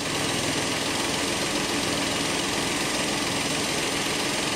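A Peugeot 208's 1.2-litre three-cylinder petrol engine idling steadily.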